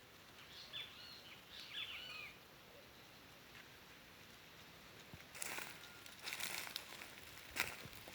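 A bird gives a quick series of short, curving chirps during the first two seconds. From about five seconds in come several short bursts of rustling noise.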